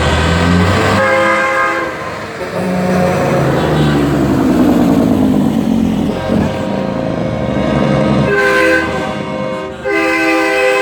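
Truck air horns blowing a string of long, chord-like blasts, one after another, with one blast sliding in pitch partway through.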